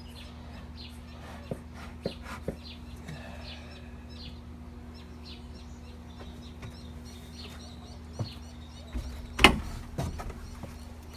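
Small birds chirping in short, scattered calls over a steady low hum. A few sharp knocks come through, with the loudest about nine and a half seconds in, as wooden hive boxes and frames are handled.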